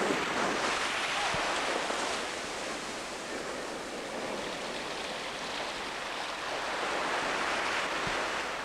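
Ocean surf washing on a shore, a steady rush that eases in the middle and swells again near the end.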